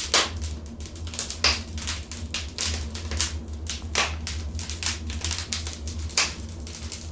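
Wood fire crackling in a fireplace: irregular small ticks and pops with a few louder snaps, over a steady low rumble.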